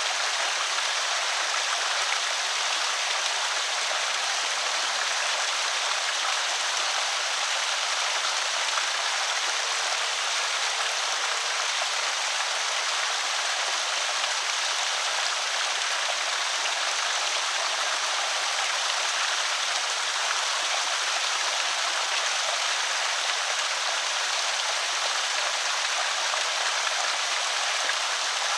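Water spilling over a small concrete creek spillway: a steady, even splashing rush with little low rumble.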